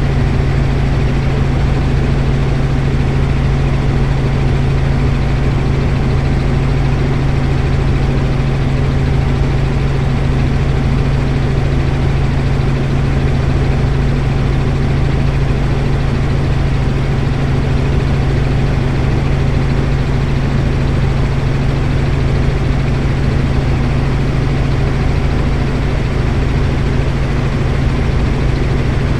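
Helicopter in flight: a steady engine and rotor drone with a strong low hum, unchanging throughout.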